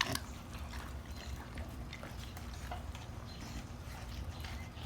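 Dogs chewing raw chicken: faint wet smacking and scattered crunching clicks over a low steady rumble.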